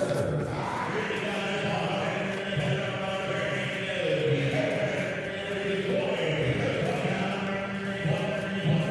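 An auctioneer's rapid, continuous bid-calling chant, run together without pauses.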